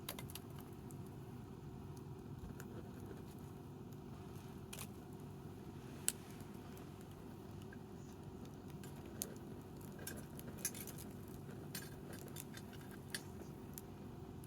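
Wood fire crackling: scattered sharp pops and ticks, the sharpest about six seconds in, over a steady low background noise.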